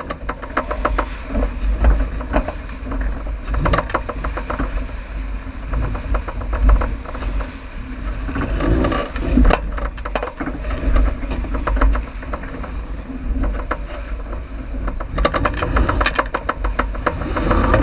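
Wind and water noise aboard a J80 sailboat running downwind: a steady low buffeting rumble with repeated short crackling, splashing bursts, loudest in clusters around the middle and near the end.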